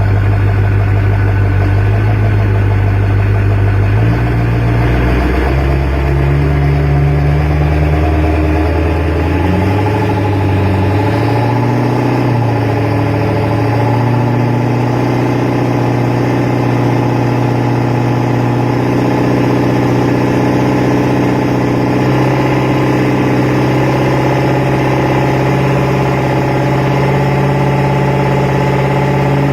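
Duramax diesel truck engine running. Its revs rise and fall unevenly through the first dozen seconds, then settle into a steady idle.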